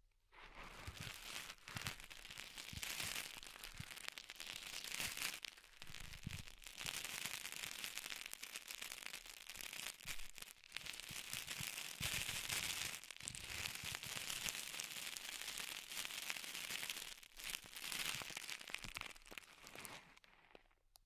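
Close-miked ASMR trigger sounds: dense crinkling and crackling with many tiny clicks, in stretches of a few seconds broken by brief pauses.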